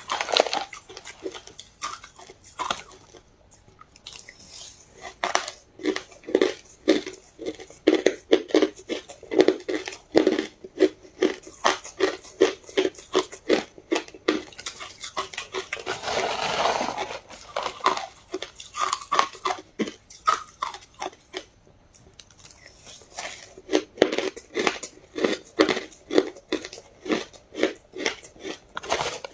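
Ice being crunched and chewed close to the microphone, in runs of sharp crunches about two to three a second with short pauses between them.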